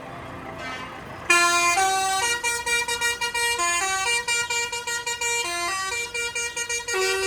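A tune played in loud, buzzy horn-like notes, starting suddenly about a second in and stepping from note to note about every half second, over street background noise.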